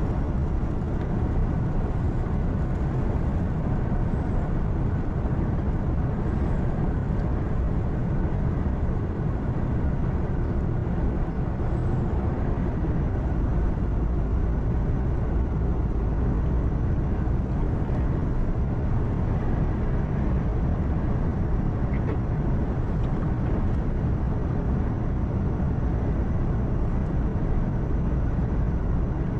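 Heavy truck on the highway heard from inside the cab: steady engine drone mixed with tyre and road noise, even and unchanging throughout.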